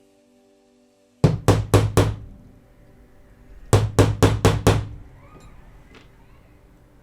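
Two quick runs of sharp knocks in a small room, four and then five, a little over four a second, each ringing briefly.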